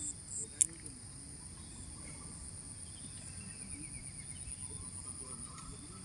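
Steady high-pitched insect chorus, with one sharp click about half a second in.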